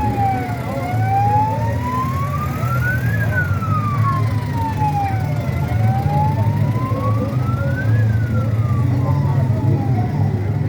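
A wailing siren, its single tone rising and falling slowly through about two full cycles, over the steady low rumble of an idling motorcycle engine.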